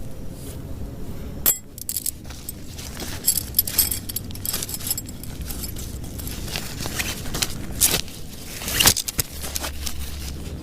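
Irregular small clinks and knocks of hard objects being handled, over a low rumble, with the loudest knock near the end.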